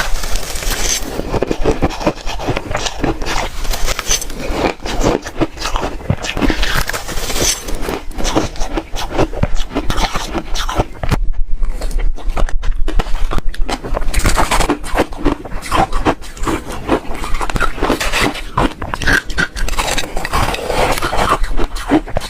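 Biting and chewing hard refrozen ice: a dense, irregular run of crunches and crackles.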